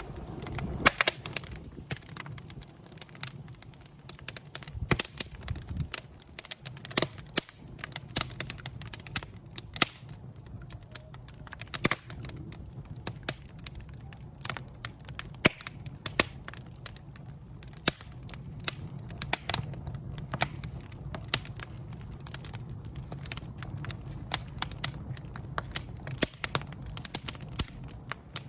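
Wood fire crackling in a fireplace: irregular sharp pops and snaps, some loud, over a steady low rumble of the flames.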